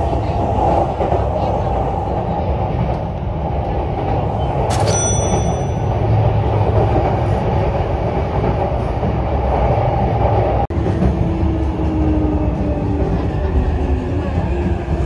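JR local train running on the rails: a steady rumble of wheels and running gear. A short high ping sounds about five seconds in, and the sound drops out for an instant near eleven seconds.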